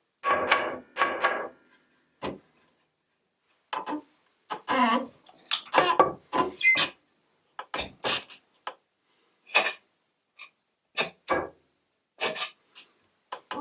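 Hook tool cutting a walnut bowl on a pole lathe: short, irregular scraping strokes with silent gaps between them, two longer cuts in the first second and a half, then a run of brief ones.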